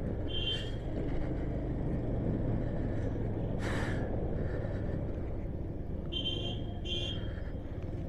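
Motorcycle running steadily on the road, a low rumble of engine and wind. A few short high-pitched chirps come about half a second in and twice near the end, with a brief hiss in the middle.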